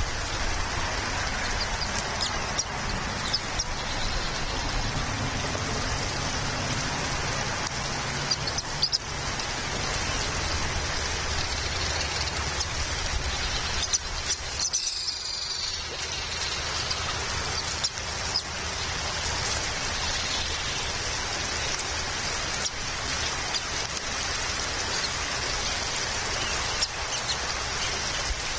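Steady rain falling, with a few faint bird chirps.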